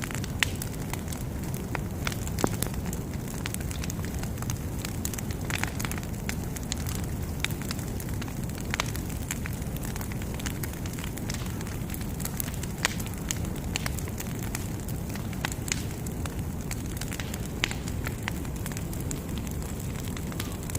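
Large bonfire burning: a steady low rumble of flames with frequent sharp crackles and pops.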